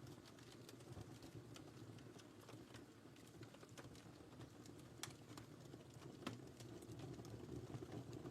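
Wood fire in a fireplace crackling: a low steady rumble of burning with scattered small crackles and two sharper pops about five and six seconds in.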